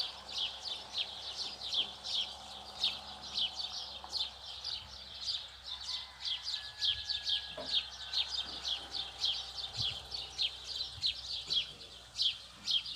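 Birds chirping continuously: a dense run of short, high calls, each dropping quickly in pitch, several a second.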